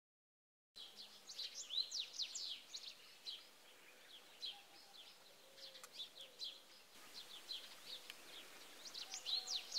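Small birds chirping, many short, quick, falling notes, starting just under a second in after a moment of dead silence. The sound is faint.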